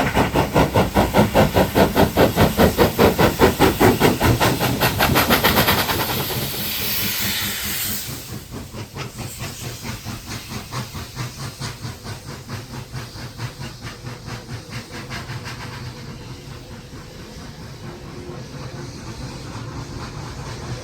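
Two steam locomotives, NSW 35 and 36 class 4-6-0s, working hard up a steep grade: loud, rhythmic exhaust chuffs at about three a second, then a steady hiss of steam about six seconds in, after which the chuffing carries on much fainter.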